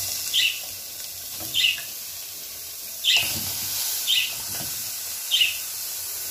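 Onion frying in oil in a pot with a steady sizzle as raw ground beef is dropped in. A bird chirps over it again and again, a short call about every second and a bit.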